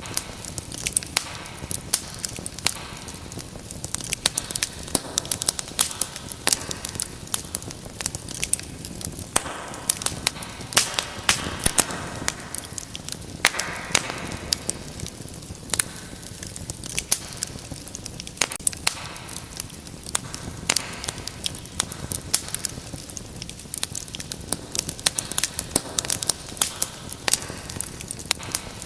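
Wood fire in a fireplace crackling, with frequent sharp pops and snaps over a steady hiss of burning.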